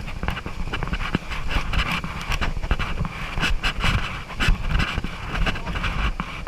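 Rafting paddles splashing and river water rushing as the crew paddles forward, with many irregular splashes and knocks over a steady rush of water and low rumble.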